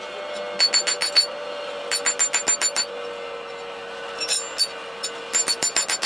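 Metal lathe running with a steady whine, broken by bursts of rapid, sharp metallic clicking, about nine clicks a second, as metal is worked on the machine.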